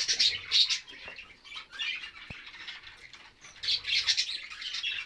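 Small cage birds chirping and calling in quick bursts, several voices overlapping.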